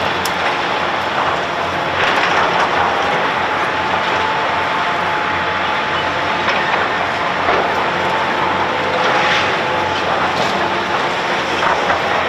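Heavy construction machine at work: a steady loud running noise with a thin steady whine, broken by a few sharp knocks and cracks.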